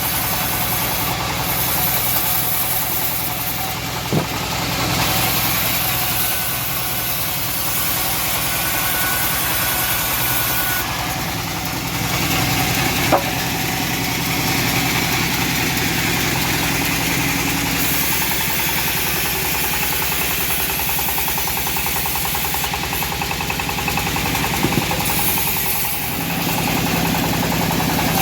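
Homemade bandsaw sawmill running steadily while sawing a teak log, an engine drone under a broad rushing noise. Two short sharp knocks, about four and thirteen seconds in.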